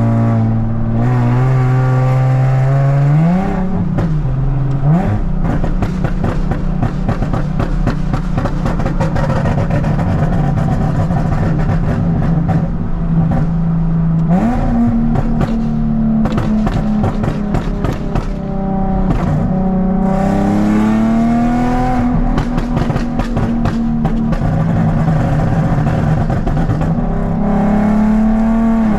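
Straight-piped Nissan 370Z's 3.7-litre V6 exhaust while driving, the note rising through the revs and dropping back several times, with dense crackling pops throughout. The pops come from a pop tune on a catless exhaust with test pipes.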